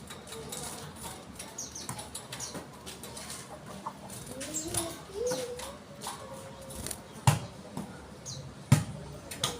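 A bird giving low calls that glide up and down, with two sharp thumps near the end.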